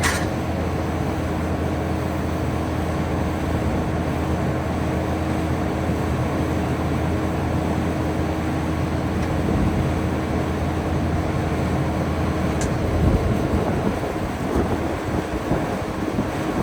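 Heavy equipment engine running steadily with a constant hum, and a few brief knocks near the end.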